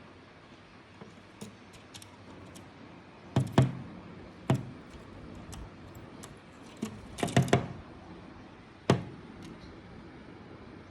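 Irregular sharp knocks and taps, some in quick clusters of two or three, a second or more apart, with fainter ticks between them.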